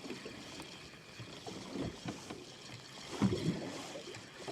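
Water lapping and splashing against a small boat, with irregular knocks. The loudest cluster comes about three seconds in.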